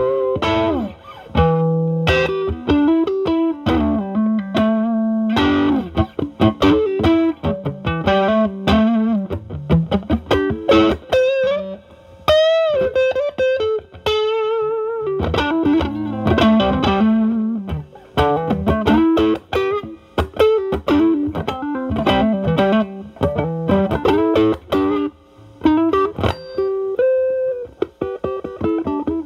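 Stratocaster electric guitar with single-coil pickups, played through a Ceriatone Centura Klon-clone overdrive pedal into a Marshall Valvestate amp's drive channel, improvising blues lead lines with bends and vibrato. The guitar's volume is rolled back to clean up the overdrive.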